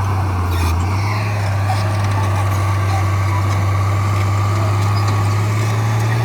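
Diesel engine of heavy earth-moving equipment running steadily under load, a continuous low drone whose pitch shifts slightly about a second in.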